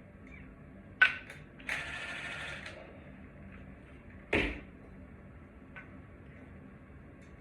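Mechanical handling sounds: a sharp click, a brief rasping noise lasting about a second, then a single thump.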